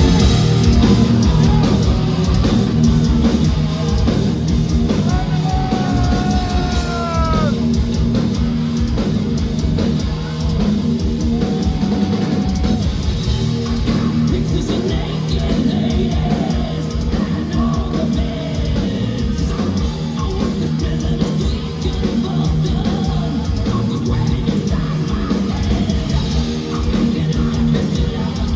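A heavy metal band crashes in and plays live at full volume: distorted electric guitars, bass and a pounding drum kit, with some sliding guitar notes a few seconds in.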